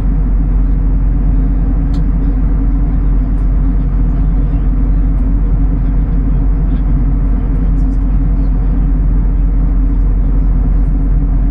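Steady, loud low rumble of a vehicle in motion, unbroken throughout.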